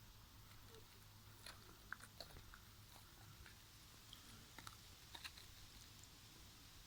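Near silence: a steady low hum with faint scattered clicks, a few of them a little louder through the middle.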